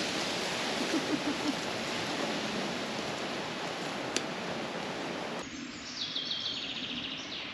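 Steady rushing outdoor noise that cuts off abruptly about five and a half seconds in, giving way to birdsong: quick runs of high chirps.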